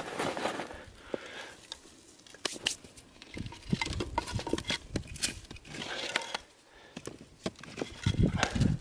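Irregular snaps, clicks and knocks of wooden sticks being handled and stacked while laying a campfire, with a few heavier thumps near the end.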